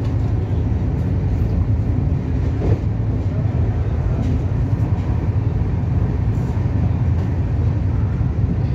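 Steady low rumble of a Shatabdi Express coach running at speed along the track, heard from inside the carriage.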